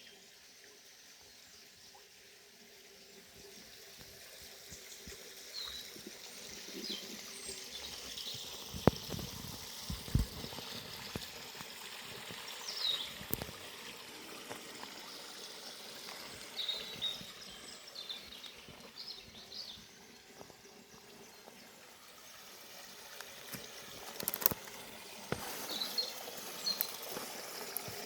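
Forest river running and trickling over stones, with scattered short bird chirps above it. A few brief thumps about a third of the way in and sharp clicks near the end stand out from the water.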